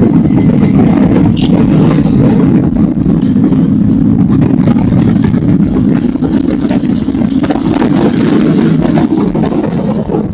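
Motorcycle engine and exhaust running steadily at a fairly even speed, a loud continuous low drone.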